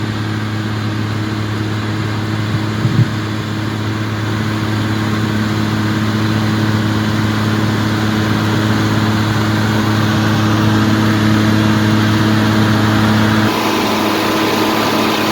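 John Deere 4250 tractor's six-cylinder diesel engine running steadily at a constant speed, with a brief click about three seconds in. Near the end the steady engine note breaks off and a louder, rougher noise takes over.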